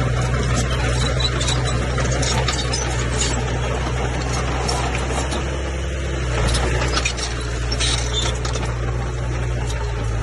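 Komatsu bulldozer's diesel engine running steadily under load, with scattered metallic squeaks and clanks from the tracks and blade.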